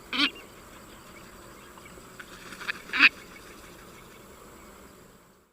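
Duck quacking: a loud call right at the start, a few fainter calls about two seconds in, and the loudest quack at about three seconds.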